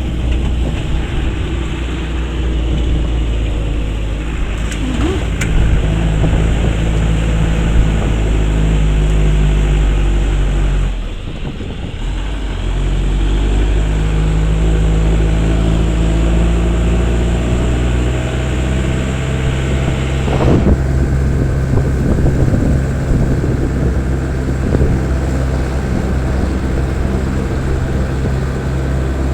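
A vehicle engine running steadily while under way, its pitch shifting a few times, with a brief drop in level about eleven seconds in, and a rushing noise over it.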